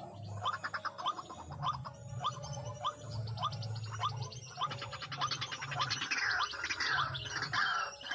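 White-breasted waterhen (ruak-ruak) calling: a fast run of short, rising, croaking notes, several a second, turning to a series of falling notes about six seconds in.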